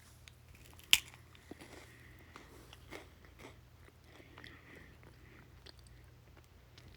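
A person chewing shrimp Alfredo close to the microphone: faint, scattered mouth clicks and chewing sounds, with one sharp click about a second in.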